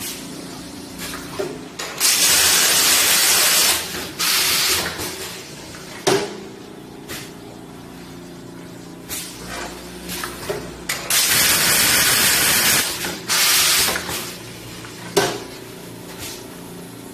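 Automatic vacuum tea packaging machine running through its cycle: a steady motor hum, sharp mechanical clicks, and loud bursts of gas hissing in pairs, twice, about nine seconds apart.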